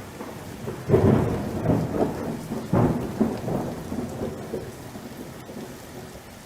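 Thunder: a sudden crack about a second in, then a rolling rumble that fades over the next few seconds, over steady rain.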